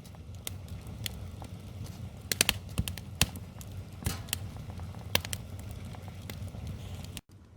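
Wood fire crackling, with sharp, irregular pops and snaps over a steady low rumble; the sound drops out for an instant near the end.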